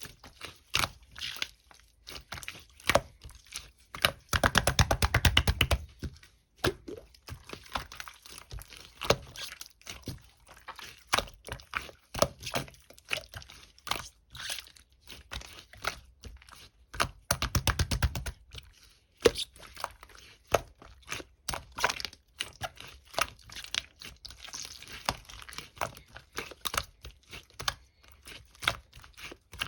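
Clear slime being squished and pressed by hand, giving many small sticky clicks and pops of trapped air, with denser runs of rapid popping about four seconds in and again about seventeen seconds in.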